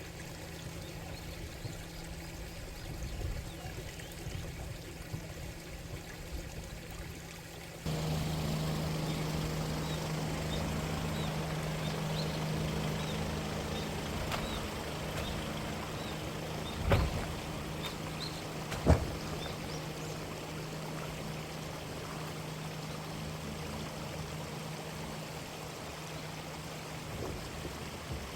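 Running stream water with a steady low engine hum under it, which gets louder about eight seconds in. Two sharp knocks about two seconds apart past the middle.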